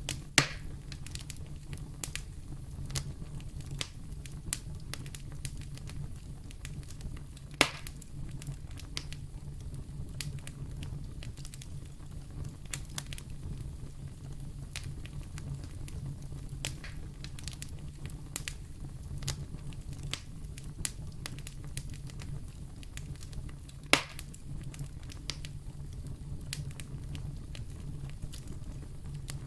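Wood fire in a fireplace crackling, with a steady low rumble of flames under a stream of small snaps. Three louder pops stand out: one right at the start, one about a quarter of the way in, and one about four-fifths in.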